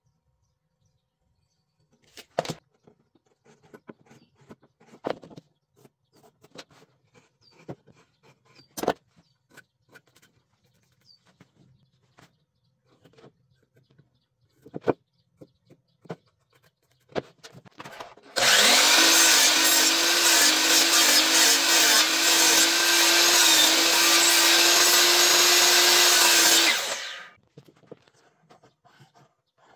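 Scattered light knocks and taps of wood being handled, then a power tool starts and runs loud and steady for about eight seconds, cutting wood, before stopping.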